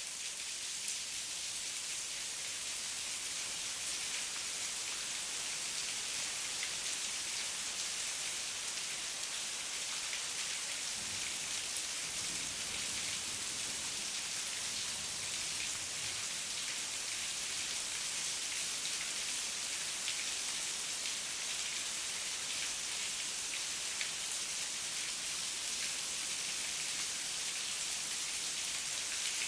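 Steady heavy rain, a dense hiss of drops with fine individual patter throughout. A faint low rumble swells briefly about halfway through.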